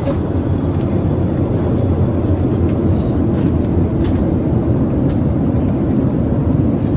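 Steady cabin noise of a Boeing 737-800 in flight, a constant low rush of airflow and engines heard from inside the cabin, with a few faint ticks.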